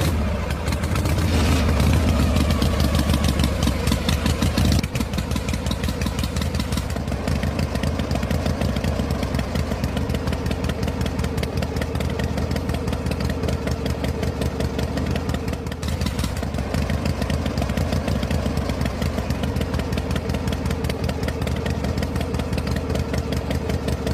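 Small engine running with a fast, even putter, louder and deeper for the first five seconds, then settling to a steady run.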